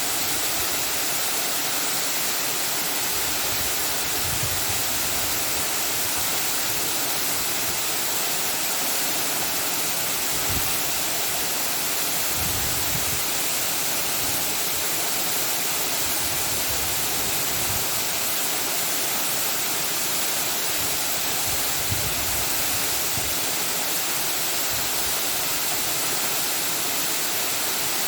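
Steady, even rushing noise with no break or rhythm, with faint low rumbles now and then.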